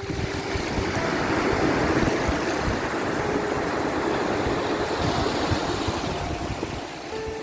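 Sea waves washing in a steady rushing wash that swells about a second in and eases near the end, with faint held tones, likely soft background music, drifting above it.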